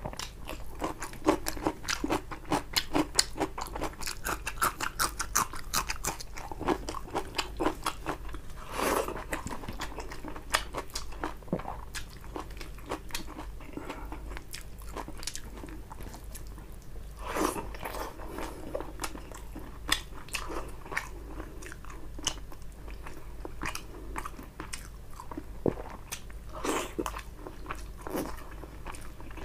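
Close-miked eating by a person: a run of crisp crunching bites and chewing on raw cucumber during the first several seconds, then slower, wetter chewing and mouth sounds with scattered crunches.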